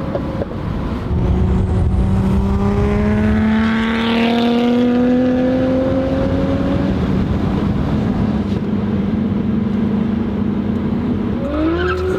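Nissan Skyline R33's built, turbocharged RB25DET straight-six running hard under load. Its note climbs slowly as the car accelerates and is loudest about four seconds in. Near the end a different, shifting higher note comes in.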